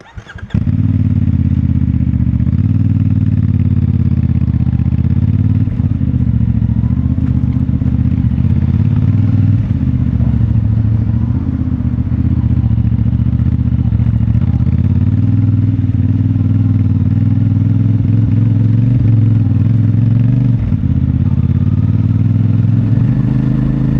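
CFMoto 450MT's parallel-twin engine running at low, fairly steady revs through its stock exhaust. It comes in suddenly just after the start.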